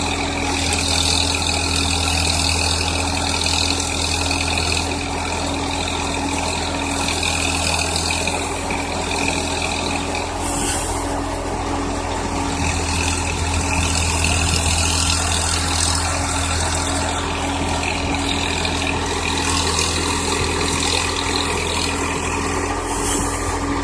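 Swaraj 960 tractor's diesel engine running steadily while driving a BULL backhoe loader's hydraulics, with a higher whine that comes and goes and two brief hisses, about 11 and 23 seconds in.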